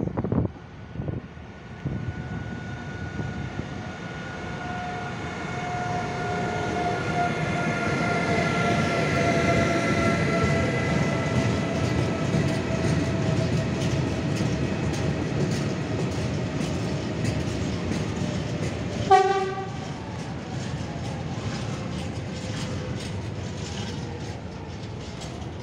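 A freight train led by a Class 193 Vectron electric locomotive passes, with a slowly falling whine as the locomotive goes by. It is followed by a long rake of open freight wagons rolling past with a steady rumble and the clatter of wheels over rail joints. A brief horn toot sounds about three quarters of the way through.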